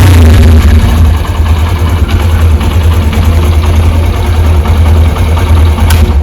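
Honda SP 125's single-cylinder four-stroke engine idling steadily, with its rocker arms freshly replaced and valve tappets newly adjusted.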